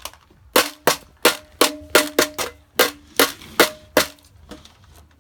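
A run of about ten sharp knocks or raps on a hard container that someone is struggling to open, some with a brief ringing note after them, in uneven quick succession over about three seconds.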